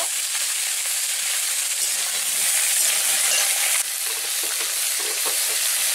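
Chopped vegetables and onion frying in hot oil in a steel wok, a steady sizzling hiss, with a metal spatula stirring now and then in the second half.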